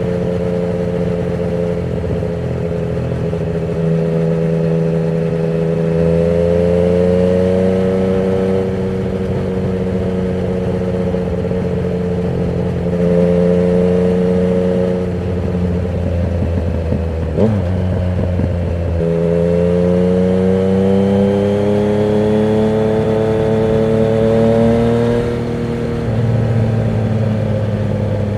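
Yamaha MT-09's inline three-cylinder engine through a Termignoni exhaust with the dB killer removed, under way, its pitch rising and falling with the throttle. About two-thirds of the way in the note drops away with a short sharp blip, then climbs steadily for several seconds before falling off again.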